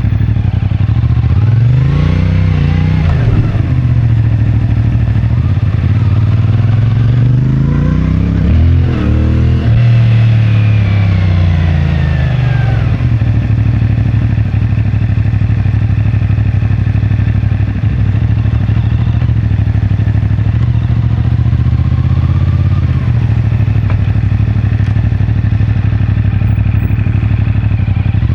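CFMoto 450MT parallel-twin engine through its stock exhaust, rising and falling with the throttle: a short rise and fall about two seconds in, a longer climb and fall from about eight to thirteen seconds, then running fairly steady with a small rise near the end.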